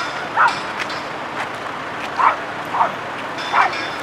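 A dog barking: four short barks spread across a few seconds.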